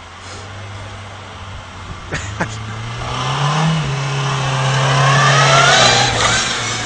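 Mk3 VW Golf hatchback engine revving under load as the car pulls against a tow strap. The revs step up about halfway through and are held, growing louder, with two sharp clicks at about two seconds.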